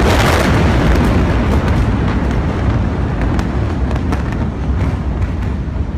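Blast from a huge explosion: a loud, deep rumble that is strongest at first and slowly fades, broken by scattered sharp cracks and pops.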